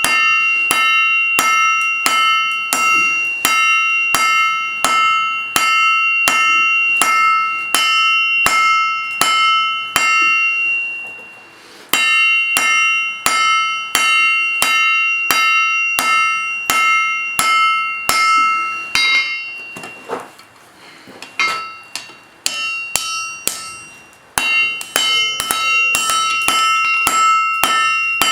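Blacksmith's hammer striking hot steel on an anvil, about two to three blows a second, each blow leaving a bright, bell-like anvil ring. The blows break off briefly a little before halfway, turn lighter and uneven with short quiet gaps in the second half, then go back to a steady rhythm near the end.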